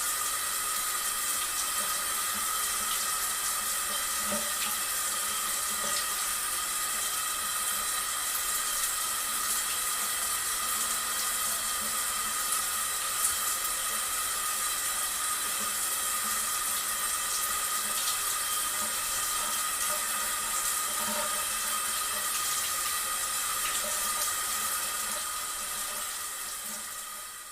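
Steady running water, pouring without a break, fading out near the end.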